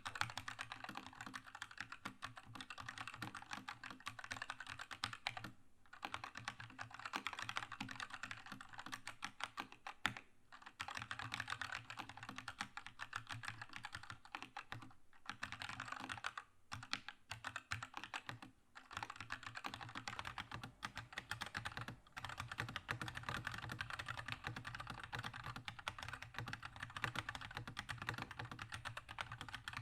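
Fast continuous typing on a Keychron K2 mechanical keyboard with linear Red switches: a dense run of key clacks, broken by short pauses a few times.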